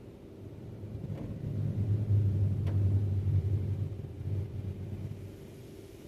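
Low rumble from automatic car wash machinery passing over the vehicle, swelling over about two seconds, holding, then fading away, over a steady background hum.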